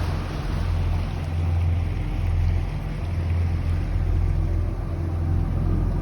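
Diesel engine of a 36-foot Grand Banks trawler humming steadily at slow cruise, with a soft hiss of water moving along the hull.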